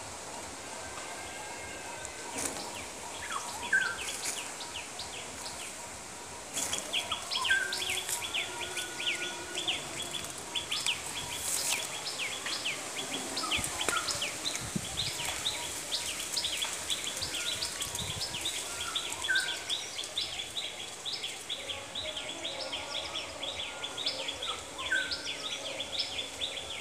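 Small birds chirping in a busy, continuous chatter of rapid high chirps that thickens a few seconds in, with a short lower whistled note now and then.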